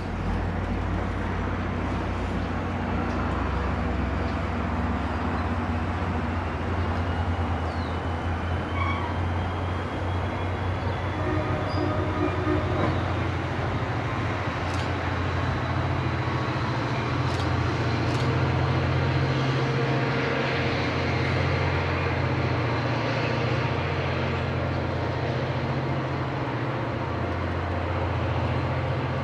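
New Jersey Transit diesel locomotive running steadily at a standstill or crawl, a continuous low engine rumble.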